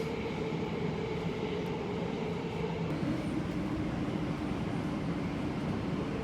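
Subway or commuter train running, a steady mechanical hum whose pitch steps down about three seconds in.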